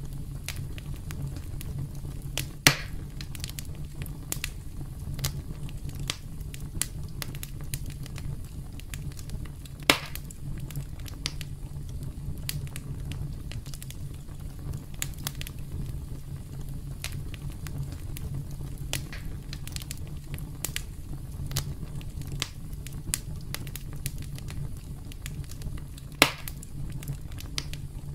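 Campfire crackling steadily over a low rumble of flames, with many small snaps and three louder pops, about three, ten and twenty-six seconds in.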